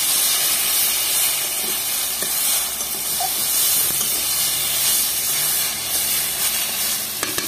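Spinach sabzi sizzling steadily as it fries in a kadhai, stirred with a metal spatula.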